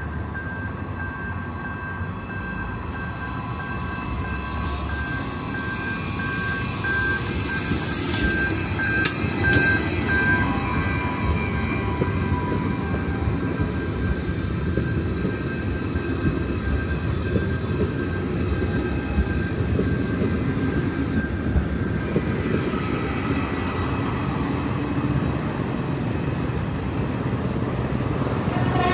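Train passing over a level crossing. The rolling noise builds over the first several seconds and then holds steady, with a steady high tone through roughly the first third.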